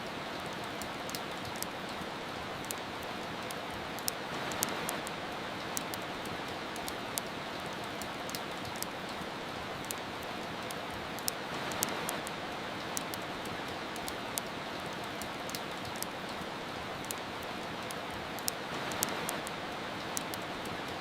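Steady rain hiss with irregular sharp crackles and pops from a wood fire. The rain swells briefly three times, about seven seconds apart.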